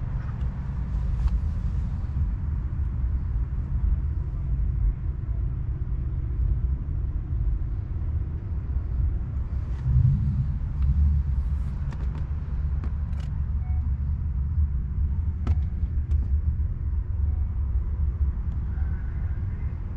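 Jaguar XK120's straight-six engine idling with a steady low rumble, briefly louder about halfway through.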